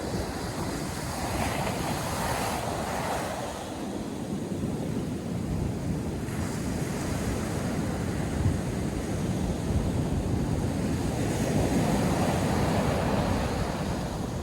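Ocean surf breaking and washing on a beach, with wind rumbling on the microphone. The wash swells a little about two seconds in and again near the end.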